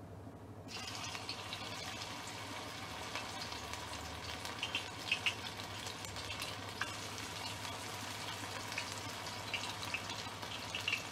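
Batter-coated baby corn deep-frying in hot oil: a steady sizzle with scattered crackles and pops, starting abruptly under a second in as the corn goes into the oil.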